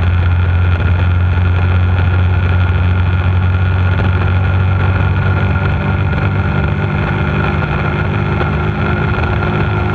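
Bullit Hunt 125 cc motorcycle's engine running steadily while riding at road speed, heard from the front of the bike. Just under six seconds in, the engine note shifts and drops slightly in level.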